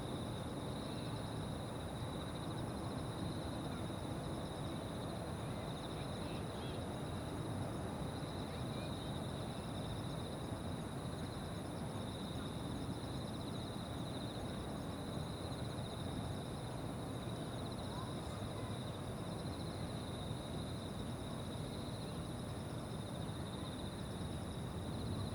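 Evening chorus of insects: steady, high, faintly pulsing trills over a constant low rumble of outdoor ambience.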